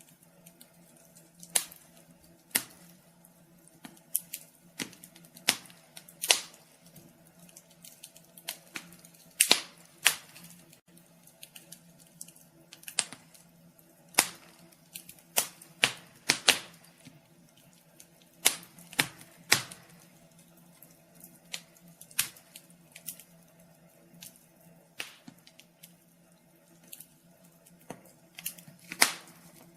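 Wood fire crackling in a fireplace: irregular sharp pops and snaps, a few a second and sometimes in quick clusters, over a faint steady hum.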